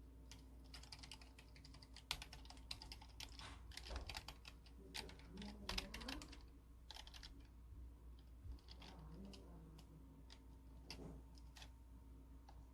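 Typing on a computer keyboard: quick runs of clicking keystrokes, with a faint short sliding tone twice in the middle.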